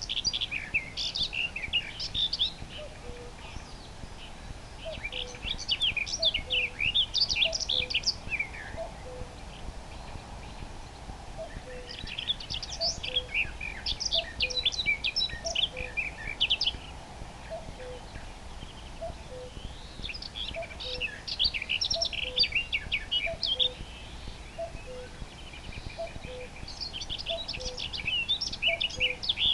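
Common nightingale singing in phrases of rapid, varied high notes a few seconds long, with short pauses between, over a cuckoo's soft, low two-note falling 'cu-coo' call repeated steadily about every second and a half.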